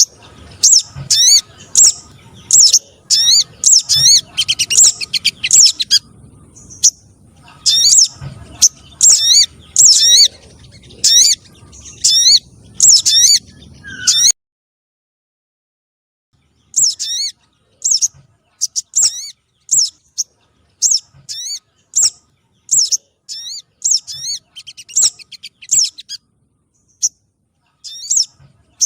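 Lure recording of sogon trotol bird calls: a fast series of short, high, sweeping chirps, roughly two a second, over a faint background hiss. A little past halfway it cuts to complete silence for about two seconds, then the chirps resume without the hiss.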